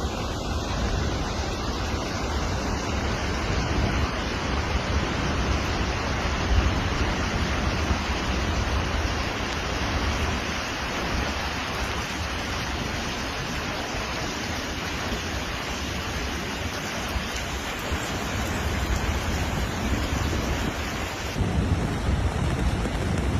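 Steady, loud rush of water from a flash-flood torrent, heavy and unbroken with no separate splashes. Near the end the sound shifts to a deeper rumble.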